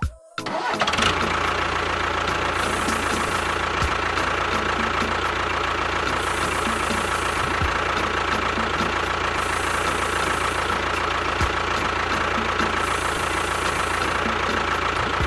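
A motor running steadily with a constant high whine over a low hum, starting about half a second in and cutting off near the end.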